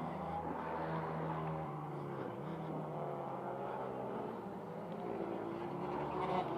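Pit bike's single-cylinder engine running under load, its pitch dipping briefly a little over two seconds in, then climbing again near the end as it revs up.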